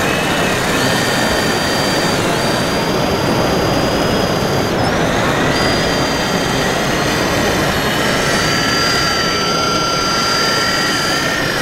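Several small electric motors of radio-controlled model machines whining, their pitches rising and falling as they speed up and slow down, over a steady hiss.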